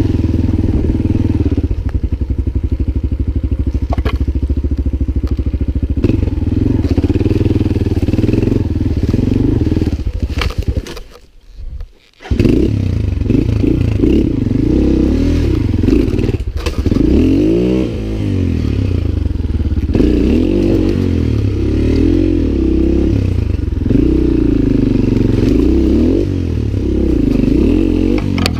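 Single-cylinder engine of a Lifan LF200GY-5 enduro motorcycle running under way, its revs repeatedly rising and falling as it is ridden. About eleven seconds in the sound drops away sharply for around a second, then picks up again.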